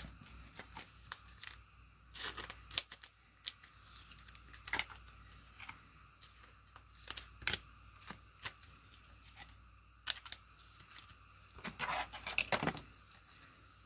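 Trading cards being handled in thin plastic: card sleeves and top loaders crinkling, with light clicks and taps, and a denser run of crinkling near the end.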